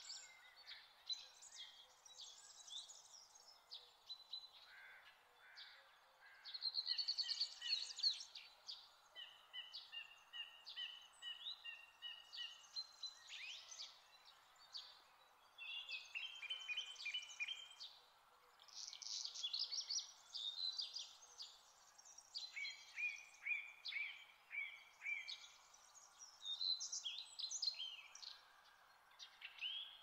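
Several songbirds singing at once, overlapping phrases of quick chirps, whistled notes and trills, the loudest a fast trill about seven seconds in. A faint steady hiss of background ambience runs underneath.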